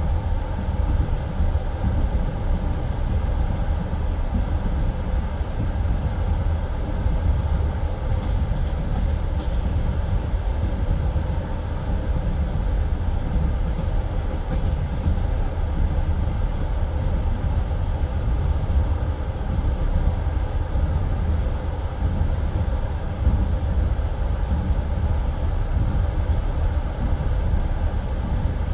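Passenger railway carriage running at speed: a steady rumble of wheels on rails, heard from inside the carriage.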